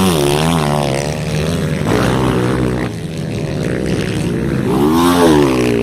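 Motocross motorcycle engines revving as bikes ride the track, their pitch rising and falling with the throttle. More than one bike is heard at once, with a clear rise and fall in pitch about five seconds in.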